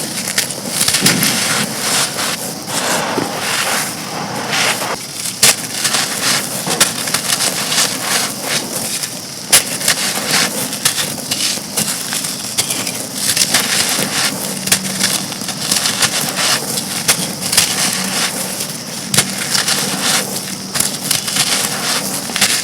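Dry, dusty brittle chunks being crumbled and crushed: dense, continuous crunching and crackling with frequent sharp snaps.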